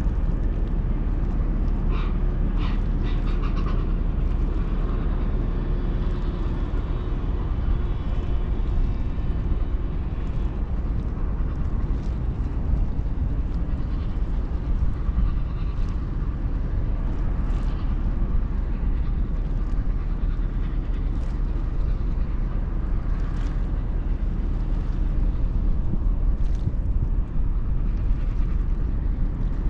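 Steady low rumble of a ferry underway, with a constant hiss over it and a few faint short chirps about two to three seconds in.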